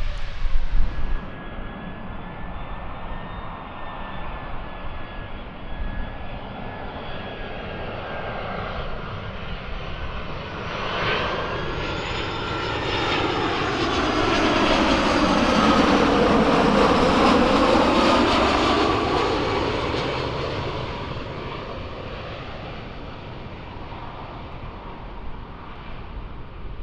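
Jet airliner passing close by, its engine noise with a high whine building to a peak about two-thirds of the way through and then fading away.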